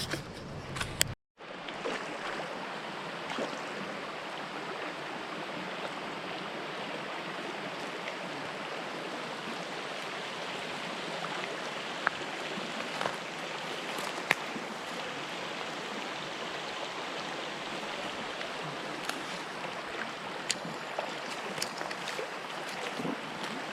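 Steady rush of flowing creek water, with a few faint clicks scattered through it.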